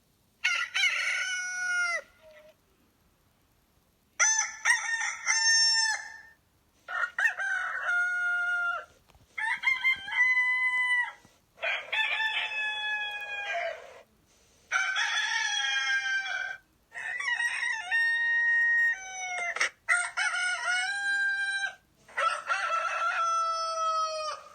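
Rooster crowing cock-a-doodle-doo, about nine crows one after another with short gaps, each about two seconds long and ending on a falling note. The crows differ in pitch from one to the next.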